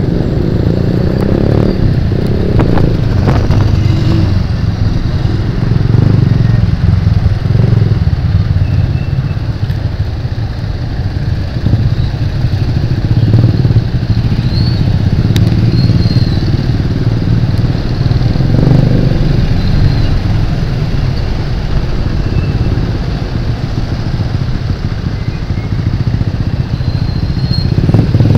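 Motorcycle engine running steadily while being ridden through street traffic, its sound heavy and low-pitched and swelling and easing slightly as the throttle changes.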